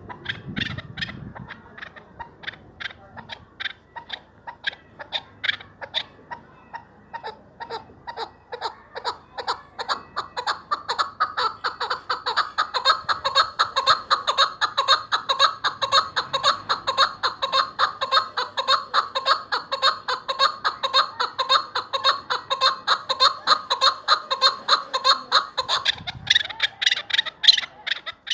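Chukar partridge calling a long run of short repeated 'chuk' notes, which speed up and grow louder about ten seconds in and hold that fast rhythm to near the end.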